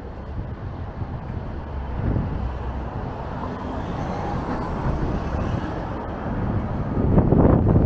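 Strong gusty wind buffeting the microphone over street traffic noise, swelling louder about seven seconds in.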